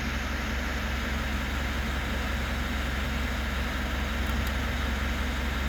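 Mitsubishi Pajero Sport's four-cylinder diesel engine idling steadily.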